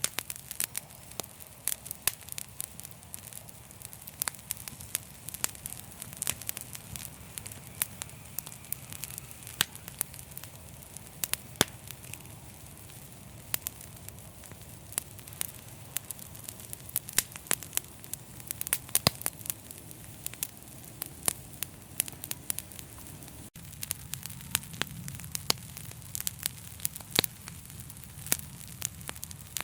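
Wood fire crackling in a fireplace, with frequent sharp, irregular pops over a steady low rumble of the flames. The sound breaks off for an instant about three-quarters of the way through.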